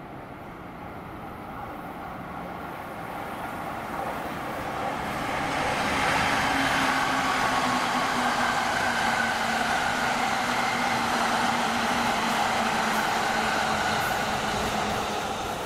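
Electric passenger train approaching and passing at speed. Its running noise swells over the first six seconds, holds steady for about eight seconds with a faint held hum, and begins to fade near the end.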